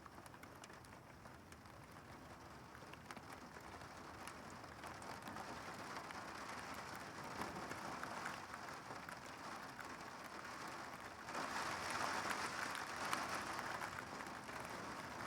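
Severe-thunderstorm rain and wind, a steady patter that builds gradually and then grows sharply louder about eleven seconds in as the storm's gust front, the 'wall of winds', arrives.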